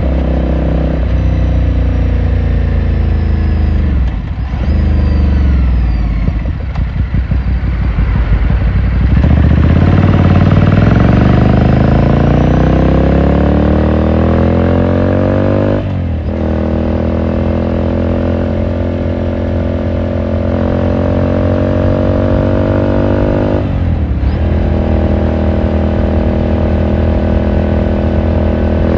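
Ducati Scrambler Sixty2's 399 cc air-cooled L-twin engine and exhaust, heard from onboard. The revs fall in the first few seconds and run low and rough for a while. About nine seconds in the engine pulls hard with the revs climbing steadily. There are gear upshifts about halfway through and again near the end, each followed by the revs rising again.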